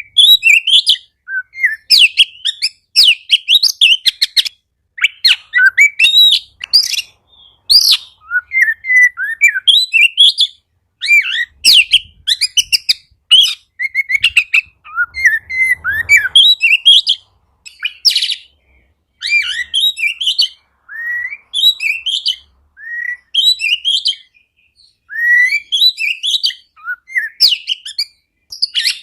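Oriental magpie-robin (kacer) singing: quick, varied phrases of gliding whistles and chirps, with short pauses between them.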